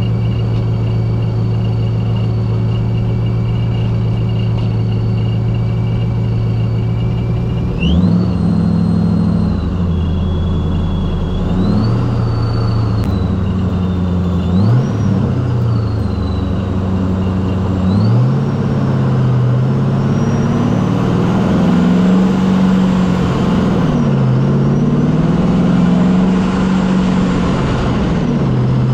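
2004 Ford Mustang Mach 1's 4.6-litre V8 with a ProCharger centrifugal supercharger, first running steadily with a high supercharger whine. About eight seconds in it pulls away and accelerates through several gears: the engine note and the whine rise together and drop at each shift.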